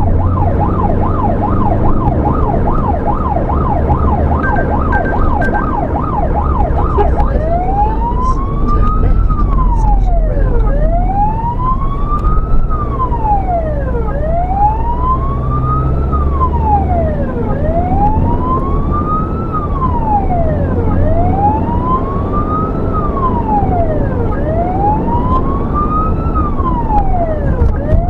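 Emergency vehicle's electronic siren on a blue-light run, sounding a fast yelp that switches about seven seconds in to a slow wail, rising and falling every three and a half seconds or so. The vehicle's engine and road noise run underneath.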